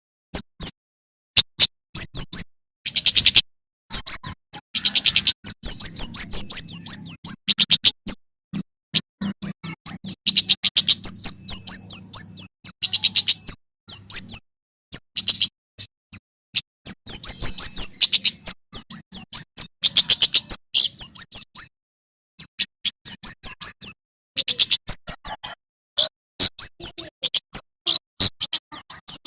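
A male prenjak keres (kemade jawa) singing in rapid runs of sharp, high chirps, with short pauses between the runs. A faint low hum sits underneath in the first half.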